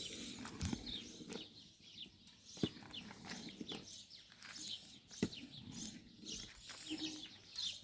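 Small birds chirping over and over in short, quick, falling notes, with a few sharp clicks or knocks scattered through.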